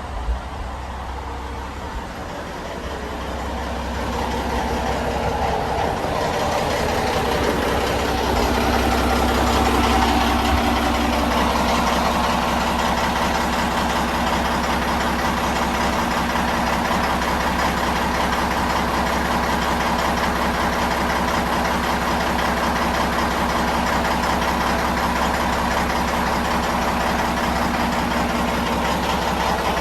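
Caterpillar C18 inline-six diesel engine running during warm-up. It builds in loudness over the first several seconds, with a shift in pitch around ten seconds in, then settles into a steady run.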